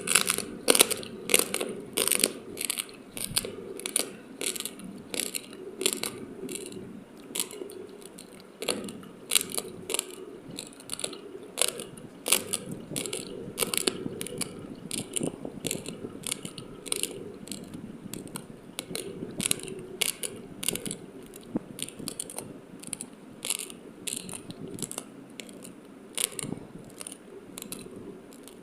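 Raw, uncooked sticky rice being chewed: a steady run of sharp crunching clicks, about two to three a second, as the hard grains crack between the teeth. The crunches are louder in the first half and softer towards the end.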